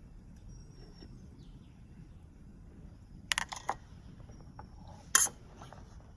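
Sharp clicks and knocks of objects being handled: a quick cluster about three seconds in and a single louder knock about five seconds in, over a steady low hiss.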